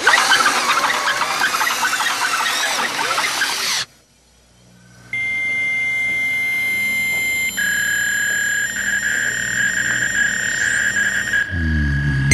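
Hand-cranked drill bit grinding and squealing as it bores into a wall, for about four seconds. After a short pause, a steady high-pitched tone comes in that shifts to a lower pitch partway through and holds until near the end.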